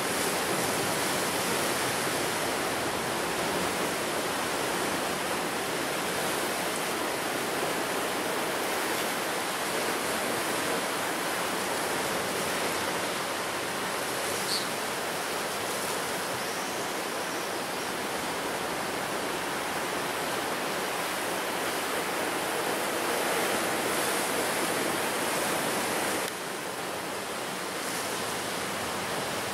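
Ocean surf breaking on the shore, a continuous even rush of waves and foaming water that steps down slightly in level near the end.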